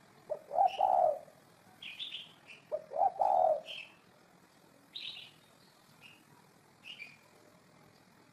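Spotted dove cooing: two coo phrases, about a second in and about three seconds in. Short high chirps from a smaller bird are scattered through.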